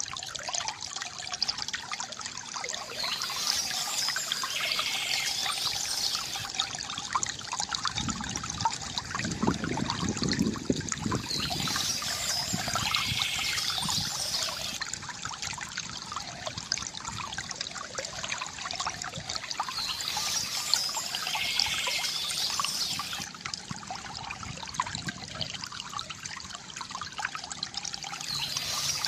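Water trickling and pouring steadily from a bamboo fountain, gurgling, with a fuller pour swelling about a third of the way in. Birds chirp in short high bursts that come back about every eight seconds.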